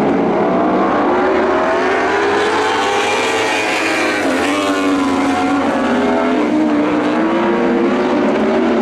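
Several Lightning sprint car engines running together on a dirt oval, their pitches rising and falling as the cars accelerate and back off through the turns.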